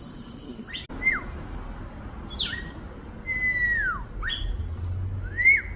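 Small birds chirping back and forth in short calls and clear whistled notes, several sliding down in pitch, with a louder rising whistle near the end.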